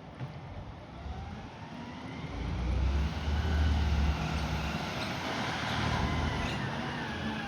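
Garbage truck engine revving up, its pitch and loudness rising with a heavy rumble, then easing off near the end.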